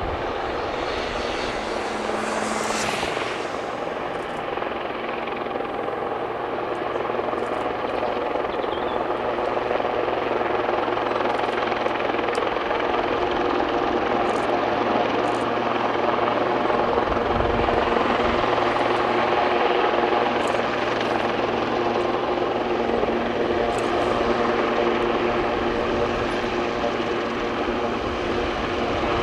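Aircraft flying by: a steady engine drone with several held pitches, growing somewhat louder through the middle, with a brief low thump about two-thirds of the way through.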